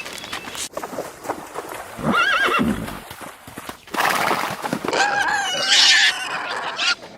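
Horse whinnying twice, a short wavering call about two seconds in and a longer one later, with hooves clopping.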